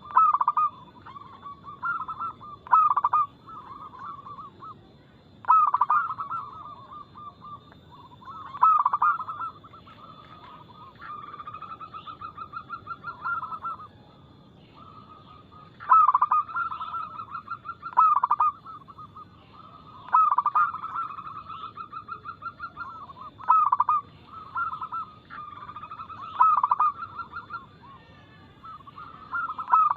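Zebra doves (perkutut) cooing, one call after another every two to three seconds: each call opens with a loud note and runs on into a fast rolling trill.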